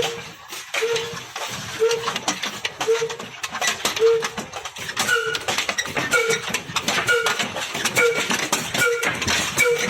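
Old single-cylinder diesel engine driving a chaff cutter: a short squeaky tone repeats in a steady rhythm, quickening from about once a second to about one and a half times a second, over constant clicking and knocking of the machinery.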